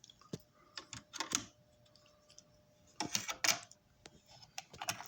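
Scattered clicks and light clatter from a Marx toy switcher locomotive and its track, in small clusters, with a faint steady whine during the first couple of seconds.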